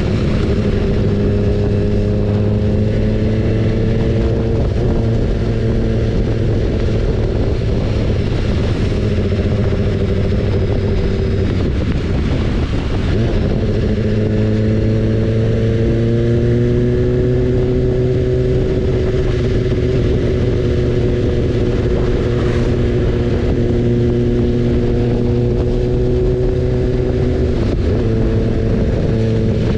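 BMW S1000RR inline-four engine running under way, its note climbing slowly. About twelve seconds in the note drops out briefly, then picks up lower and climbs again. Wind noise runs underneath.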